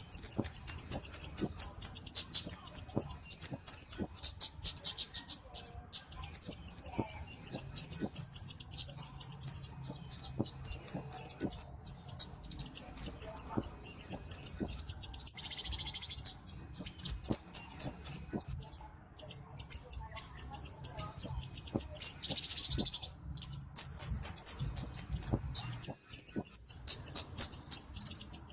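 Flowerpecker (cabe-cabean) calling: rapid runs of very high, thin notes in bursts of a few seconds, with short breaks between.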